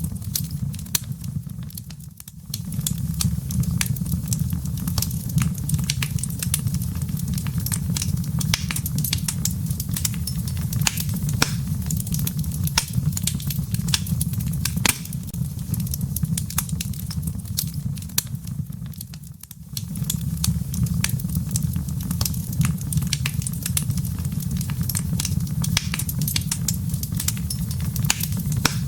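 Wood fire in a fireplace crackling, with frequent sharp pops and snaps over a steady low rumble of the burning. The sound dips briefly twice.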